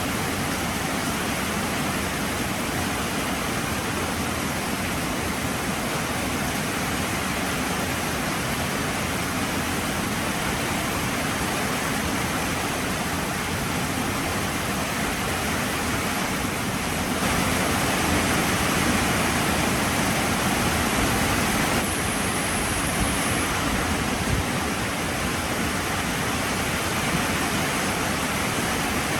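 Heavy rain falling steadily, a dense hiss that grows a little louder for about five seconds past the middle.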